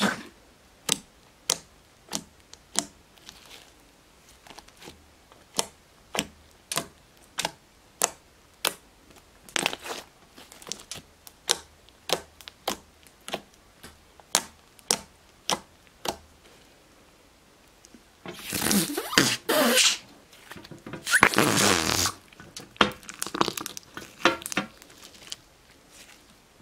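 Homemade glue slime being squeezed and worked by hand, making a regular run of short sharp pops about two a second, then, after a short pause, longer bursts of squelching and crackling.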